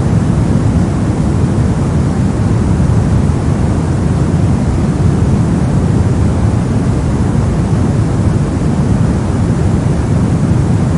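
Steady white-noise track, an unbroken even hiss heaviest in the deep end, giving a low rushing sound with no changes.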